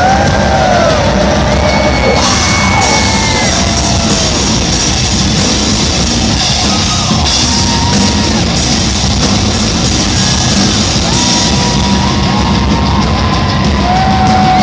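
Live heavy metal band playing at full volume, with distorted guitars, pounding drums and crashing cymbals, and yelled vocals.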